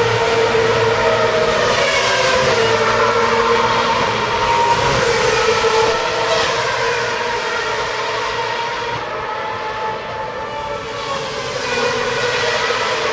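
Racing car engines running at high revs as several cars go past, their pitch sliding down as each one passes, with a brief lull in the middle before more cars come through.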